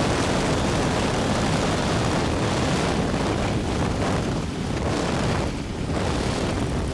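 Cessna L-19 Bird Dog's six-cylinder engine and propeller running on approach, a steady low drone under heavy wind rush on the microphone. The upper part of the rush eases off briefly twice near the end.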